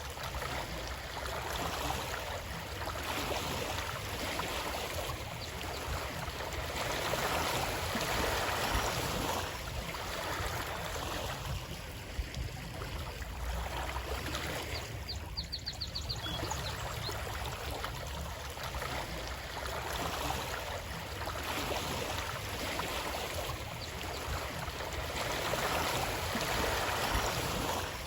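Flowing stream water, a steady rushing and trickling that swells and eases every few seconds. About fifteen seconds in, a brief run of rapid high clicks sounds over it.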